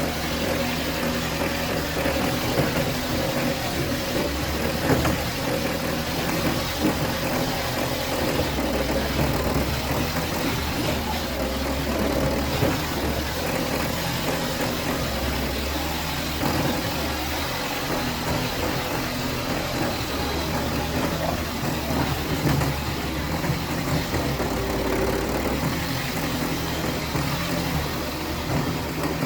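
Excavator's diesel engine running steadily, with a few brief knocks over it.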